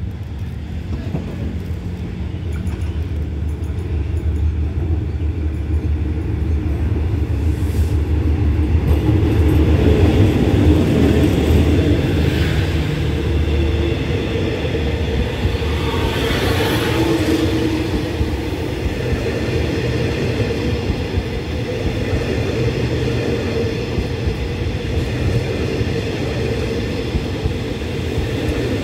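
Diesel-hauled express passenger train pulling into a station and slowing to a stop. The low rumble of the locomotive and coaches rolling slowly past the platform is loudest about ten to twelve seconds in, then eases to a steadier rumble as the train comes to a halt.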